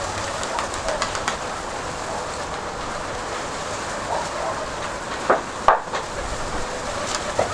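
Steady wind rushing over the microphone, with two short sharp sounds close together about five and a half seconds in.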